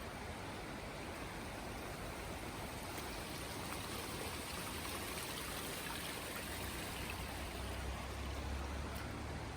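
Rushing water, a steady, even wash of noise, with a low rumble coming in about two-thirds of the way through.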